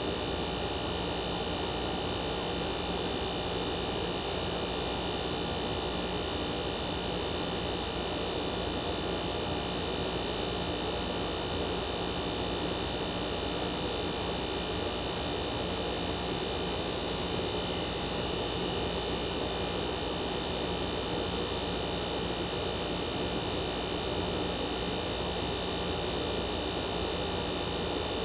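Window air conditioner running steadily, compressor and fan on medium speed. The fan holds its speed without bogging down, which the owner puts down to the unit having sat unused for a long time.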